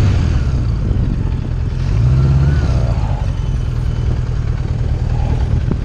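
1980 Honda Goldwing's flat-four engine running as the motorcycle is ridden, picking up in pitch briefly about two seconds in as it accelerates.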